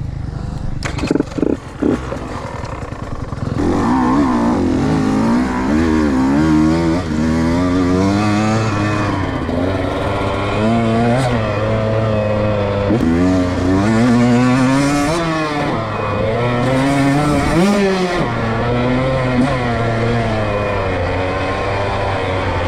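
Dirt bike engine being ridden hard, its pitch climbing and dropping again and again as the throttle opens and shuts through the gears. A few short sharp knocks about a second in.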